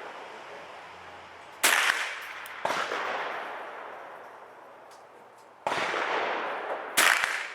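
Sig 522 .22 LR semi-automatic rifle firing single shots, four within a few seconds at uneven spacing, each crack followed by a long fading echo.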